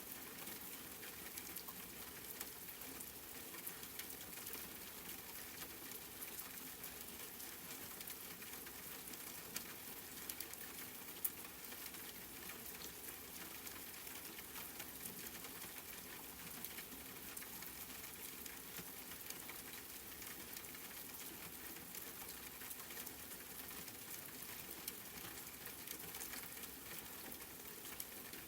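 Steady rain pattering on a surface, a dense hiss of many small drops with an occasional louder single drop, one about 11 seconds in.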